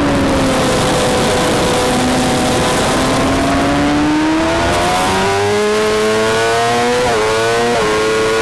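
Suzuki GSX-R600's inline-four engine at racing speed: revs fall as the bike slows for a corner, then climb steadily as it accelerates out. Near the end the pitch drops sharply and recovers twice as it shifts up a gear.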